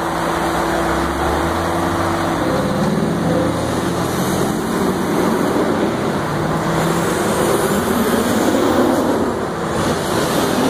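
Mazda Miata convertibles driving slowly past one after another, their four-cylinder engines running at low revs. One car's steady engine note fades away in the first couple of seconds as the next car approaches.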